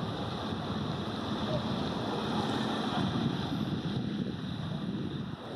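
Steady wind on the microphone over a low, even rumble.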